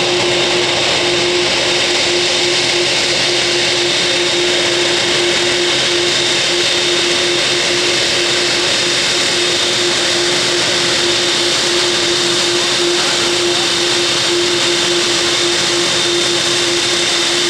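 Boeing 747-8F's GEnx turbofan engines running steadily at low power as the freighter taxis in to its stand: a constant jet whine with a steady high tone and a steady lower hum over a broad rush of air.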